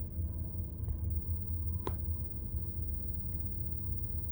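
Steady low rumble, with a single short click about two seconds in.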